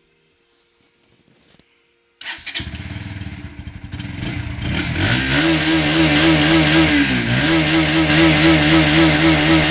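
A motor starting up after near silence, building over a few seconds and then running steadily with a regular pulse, its pitch dipping briefly once before recovering.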